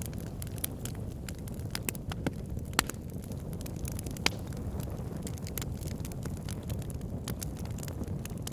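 Wood fire burning in a fireplace: a steady low roar of flames with irregular sharp crackles and pops, two louder pops about 3 and 4 seconds in.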